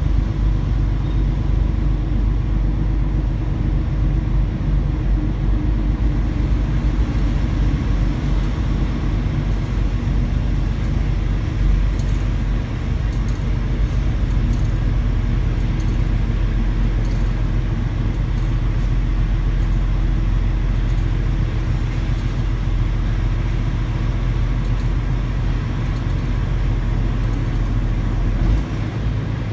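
Semi truck's diesel engine running steadily while driving, a deep, even drone.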